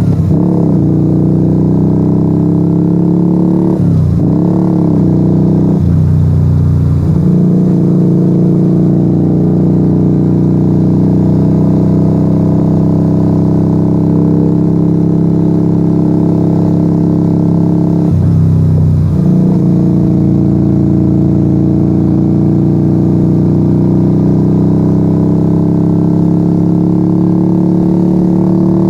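Yamaha XV125 Virago's small air-cooled V-twin running loud through a straight-pipe exhaust with no dB killers, ridden on the road. The engine note drops and picks up again at a few gear changes, and between them holds a steady note that slowly rises as the bike gathers speed.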